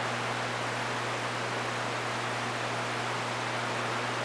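CB radio hiss: steady static from the receiver on an open channel, with a constant low hum underneath.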